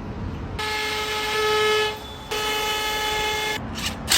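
A horn sounding two long, steady blasts at one pitch, with a short break between them, followed by a few short clicks near the end.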